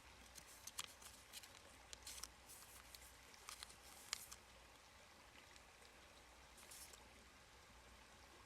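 Faint, scattered light clicks and taps, several in the first half, over a low steady hum.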